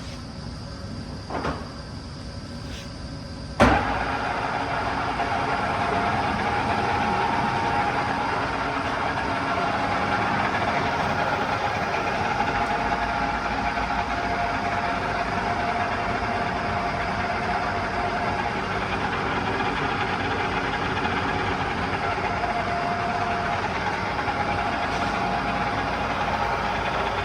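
LeBlond 16-inch heavy-duty engine lathe started with a sharp click about three and a half seconds in. It then runs steadily with a constant whine.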